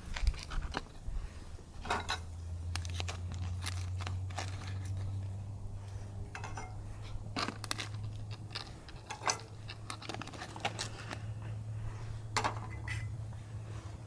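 Scattered clinks, taps and scrapes of cookware and utensils being handled during camp cooking, over a steady low hum.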